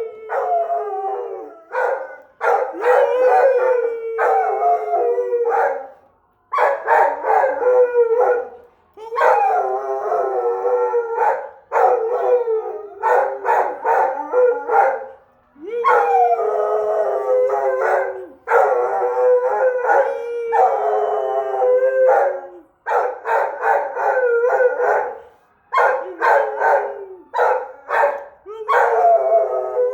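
Australian Shepherd howling over and over: long pitched howls of a few seconds each with short breaks between, many sliding down in pitch as they end.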